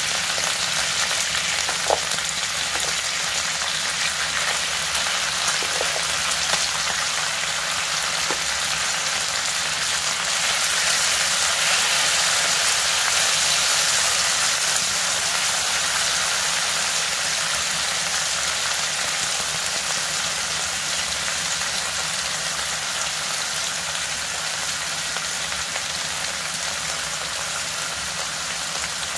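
Pork belly and kimchi sizzling in a frying pan: a steady, even hiss of fat frying. A few light knocks come in the first eight seconds or so, and the sizzle swells slightly about halfway through as a spatula stirs the pan.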